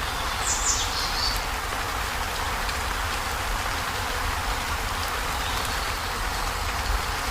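Heavy rain drumming steadily on a corrugated zinc roof, a dense even patter with a low rumble underneath. A brief high chirp sounds about half a second in.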